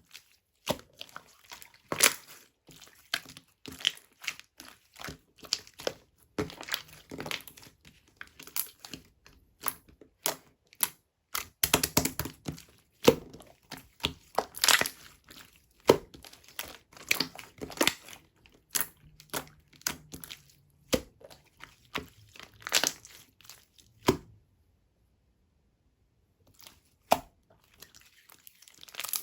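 Hand-played strawberry-yogurt slime being squished and pressed, giving quick irregular pops, clicks and crackles as trapped air bursts. The pops stop for about two seconds near the end, then start again.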